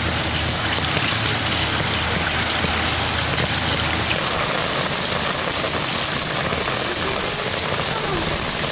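Rain falling steadily on a wet cobblestone street, with water pouring from a drainpipe spout onto the pavement: an even hiss throughout. A low hum underneath stops about four seconds in.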